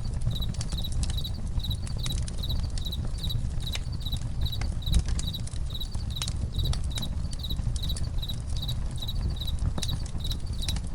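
Campfire crackling with irregular sharp pops over a low steady rumble, while crickets chirp in an even rhythm of about two to three chirps a second.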